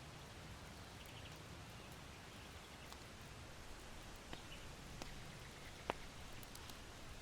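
Charcoal in an irori hearth crackling with a few sparse pops, the sharpest near the end, over a steady low wind hiss, with faint small-bird chirps.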